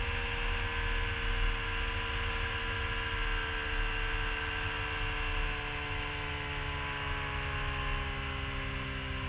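Sport motorcycle engine running at speed, its note slowly falling as the revs drop, with wind rumble on the microphone underneath.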